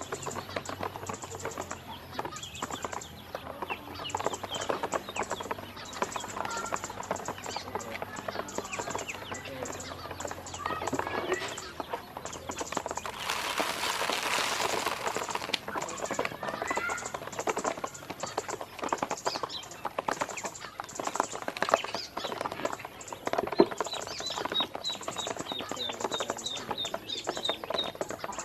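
Ducklings pecking and dabbling at feed, a busy run of small clicks and taps, with scattered peeps. A rushing noise lasts about two seconds around the middle, and a quick string of high peeps comes near the end.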